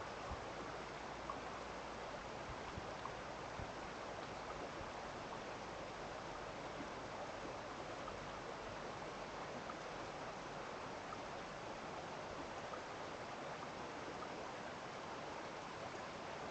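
Steady rush of running water from a stream, even and unbroken, with a few faint ticks in the first few seconds.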